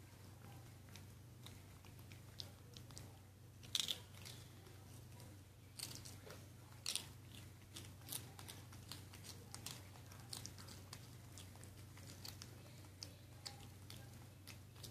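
Small irregular crunches and clicks of animals chewing a hard, dry treat, the sharpest a little under four seconds in and about seven seconds in, over a faint steady low hum.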